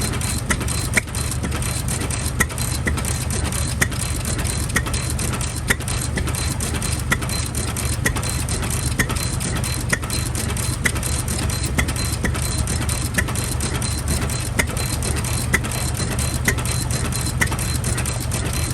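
Engine idling steadily with a low rumble and a sharp, regular click about twice a second.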